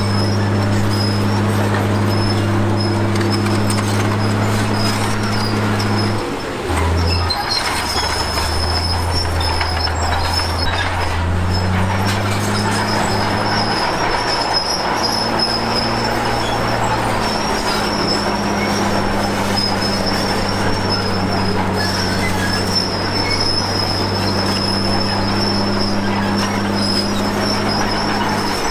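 Komatsu D53P crawler bulldozer working: its diesel engine runs under load with a thin, steady high squeal from the tracks. The engine note dips briefly about a quarter of the way in, then settles at a new pitch.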